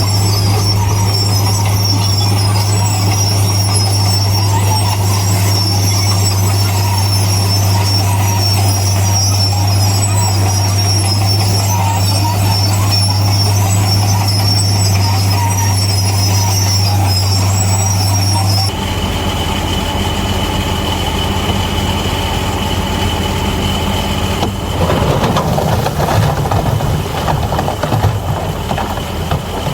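Bulldozer's diesel engine running steadily with a high whine over a low hum. About two-thirds of the way through, the sound changes abruptly to a lower engine drone, and near the end clanking and rattling from the crawler tracks grows louder for a few seconds.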